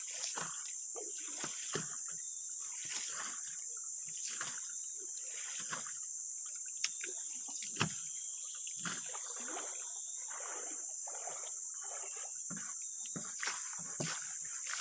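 Steady high-pitched drone of insects, with water splashing and sloshing at irregular intervals and a couple of sharp knocks.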